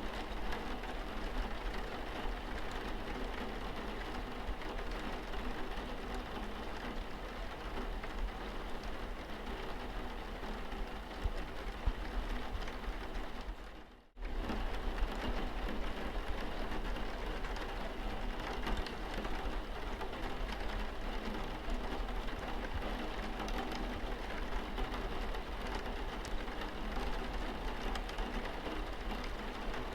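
Steady rain pattering on a car windscreen, with a low steady rumble underneath and scattered small drop clicks. It fades out for a moment about halfway through and comes straight back.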